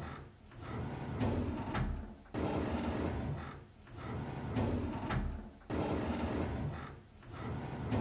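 A drawer sliding open on its runners: a rumbling slide that starts abruptly, then fades. It repeats about every three and a half seconds, twice starting anew within these seconds.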